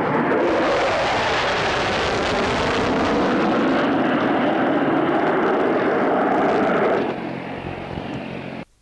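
Display aircraft flying a low pass along the display line: a loud, steady engine sound that eases off about seven seconds in, then cuts off abruptly as the recording ends.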